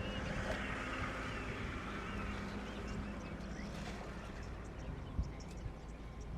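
Bush ambience at a waterhole: small birds chirping now and then over a low steady hum, with a single soft knock about five seconds in.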